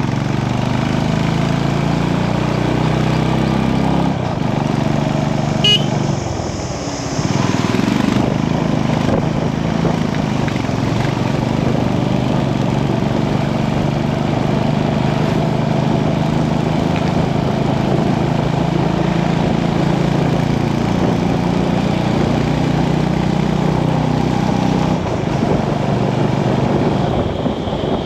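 Motorcycle engine running under way, its pitch rising and falling as it accelerates, eases off and changes gear, with a dip about six to seven seconds in. A brief high tone sounds just before the dip.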